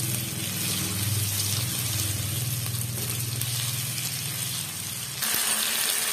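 Diced potatoes frying in hot oil in a metal kadhai: a steady sizzle over a low, steady hum. The sound changes abruptly about five seconds in, turning brighter.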